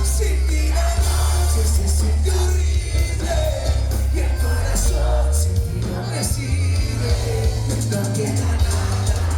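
Live band playing Latin dance music, with a lead vocal singing over a heavy bass line.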